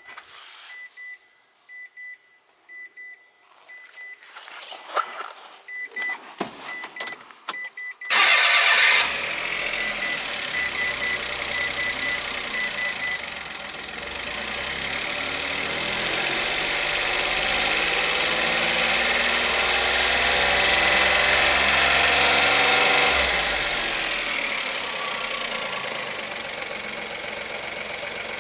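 A repeating electronic beep and a few clicks, then about eight seconds in the Mitsubishi i's 660 cc three-cylinder engine starts with a loud flare and settles into idling. The idle grows gradually louder, then drops back to a lower, steadier idle near the end.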